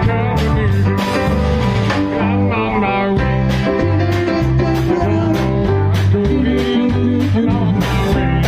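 Live band music with electric guitar, bass and drums keeping a steady beat, and some singing.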